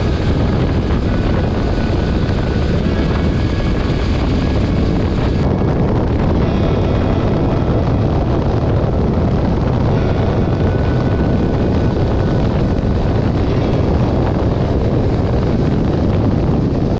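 Motorcycle riding at speed: a steady rush of wind on the camera microphone over the engine's low drone, without letup.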